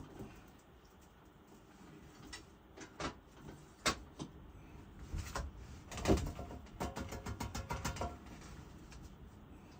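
Scattered knocks and clicks of things being handled, louder about six seconds in, followed by a quick run of about a dozen ticks.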